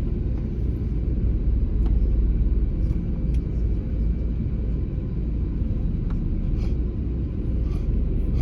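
Airbus A321neo (A321-271NX) aircraft noise: a steady low rumble with a faint steady hum and a few light clicks.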